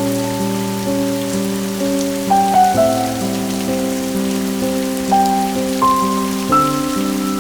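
Steady rain hiss mixed with soft instrumental music: slow single melody notes entering one at a time over held low chords.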